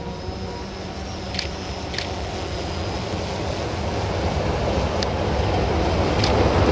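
Freight train led by an LDH1250 diesel-hydraulic locomotive approaching: a steady rumble of engine and wheels that grows louder, with a few sharp clicks from the rails.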